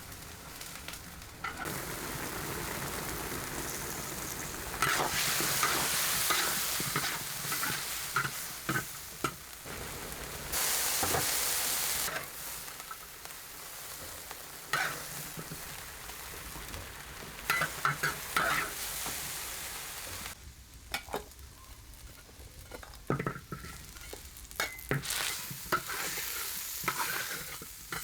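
Food frying in hot oil in a pan, sizzling, with the clicks and scrapes of a utensil stirring it. The sizzle swells loudest for several seconds in the middle.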